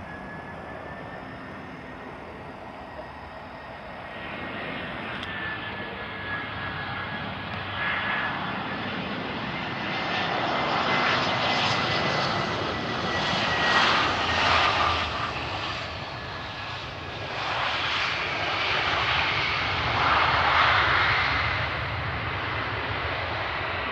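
Jet airliner's engines on its landing approach: a steady noise that builds after a few seconds, with a high whine over it, loudest in the middle and again near the end.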